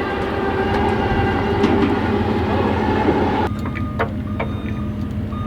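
Harbor Freight electric winch running under heavy load as it pulls a truck up a trailer ramp. It cuts off about three and a half seconds in, leaving a low steady hum and a few clicks.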